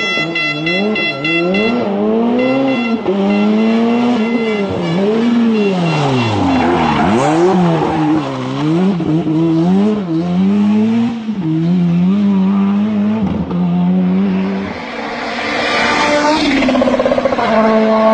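Rally car engine revving hard under full throttle, its pitch climbing and dropping again and again through gear changes and lifts. Near the end a different, steadier engine note takes over.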